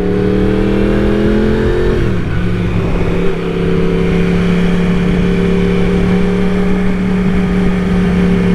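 Yamaha R1 sport bike's inline-four engine pulling hard in gear with rising revs. It shifts up about two seconds in, then holds steady revs at cruising speed.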